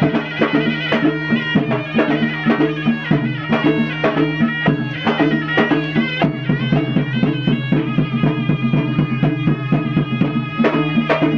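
Gendang silat ensemble playing: a serunai's reedy, sustained melody over a fast, dense beat on gendang drums.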